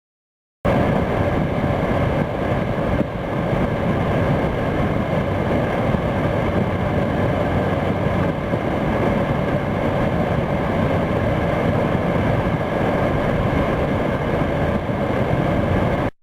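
Vehicle running steadily, a loud constant drone with a few steady tones, starting and cutting off abruptly.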